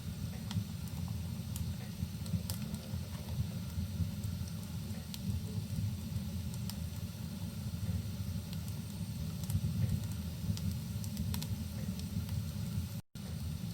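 Fireplace and rain ambience: a steady low rumble under scattered sharp crackles and pops from a wood fire. The sound cuts out for a split second near the end, then resumes.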